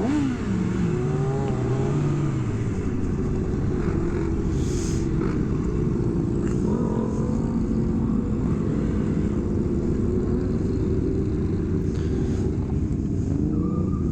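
Sport motorcycle engine running under way: a quick rev that rises and drops in the first couple of seconds, then a steady drone at an even pitch.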